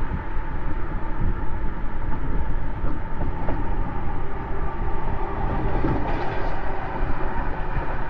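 Exhaust of a Mercedes-Benz S600's twin-turbo V12, recorded close to the tailpipe while driving: a steady low rumble mixed with road noise, with no revving.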